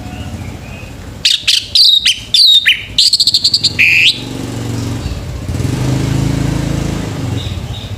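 Male orange-headed thrush singing a loud, rapid run of whistled and sweeping notes for about three seconds, starting a second in. A low rumble follows.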